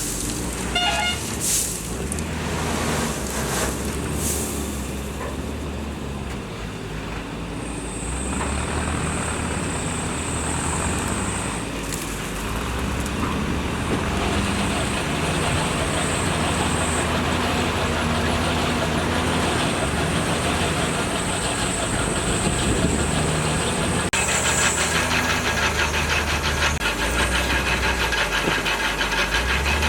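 Diesel engines of heavy earthmoving machinery running steadily, with a high whine that comes and goes. There are a few knocks in the first seconds, and a fast rattle sets in about three-quarters of the way through.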